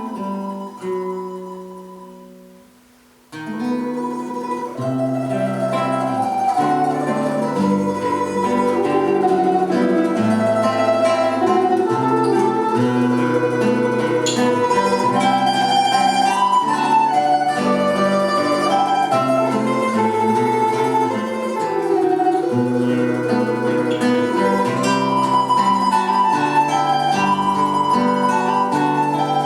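Instrumental duet of plucked string instruments playing a slow, lyrical piece. A held chord fades away, there is a short pause about three seconds in, and then the playing resumes and continues.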